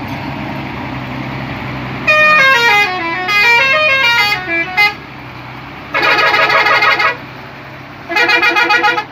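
Bedford truck horn sounding over a steady running engine: first a run of notes stepping down and back up for about three seconds, then a steady blast of about a second, then a shorter, rapidly pulsing blast near the end.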